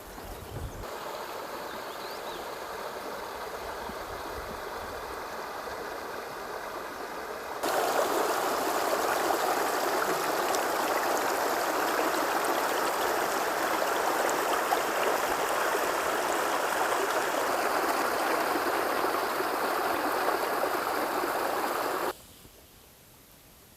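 Rushing river water, a steady hiss and gurgle. About seven and a half seconds in it jumps abruptly louder and fuller, and it cuts off suddenly near the end, leaving only a faint hiss.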